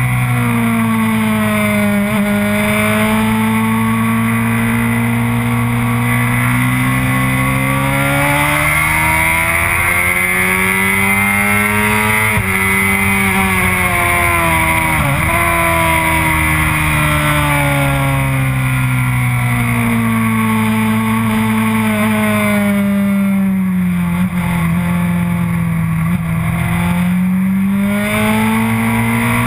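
Sport motorcycle engine heard onboard at track pace, over wind rush. The revs fall away several times and climb again, with a sudden step in pitch about twelve seconds in.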